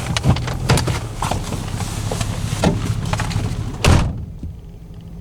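Clicks and knocks of a vehicle door being handled, over a steady low hum. A door shuts with a loud thud about four seconds in, and the sound turns duller and quieter after it.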